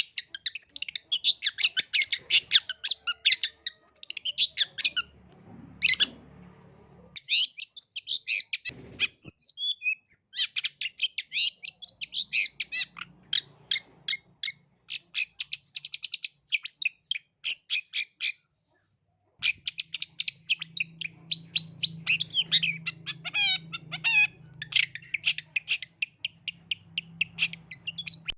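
Long-tailed shrike (cendet) singing a fast, continuous stream of rapid, harsh chirping notes, with a break of about a second roughly two-thirds of the way through.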